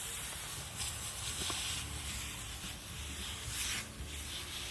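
Garden sprayer hissing as it sprays a fine mist onto tomato plant leaves, in a few louder spurts.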